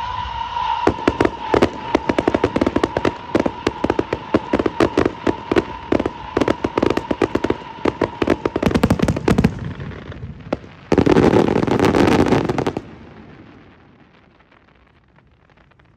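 Fireworks going off: a dense run of rapid sharp bangs and crackles over a steady high whistle for about nine seconds. Then comes a loud continuous crackling rush lasting about two seconds, which dies away into a fading tail.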